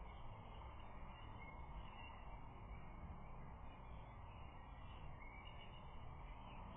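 Faint steady outdoor background noise picked up by a nest camera's microphone, with faint distant bird calls wavering above it.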